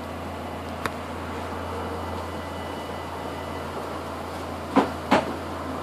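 Volkswagen Lupo GTI's 1.6-litre four-cylinder engine idling steadily through an exhaust with the middle muffler removed and the stock rear muffler kept. A sharp click about a second in and two louder knocks near the end.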